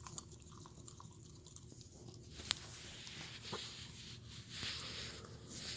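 A dog eating from a bowl, faintly chewing and crunching a mix of kibble and soft pate dog food, with scattered small clicks and one sharper click about two and a half seconds in.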